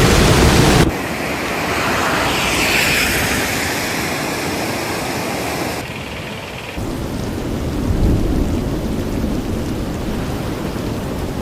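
Steady noise of heavy rain and storm rumble. The sound changes abruptly about a second in and again around six to seven seconds, as at cuts between clips.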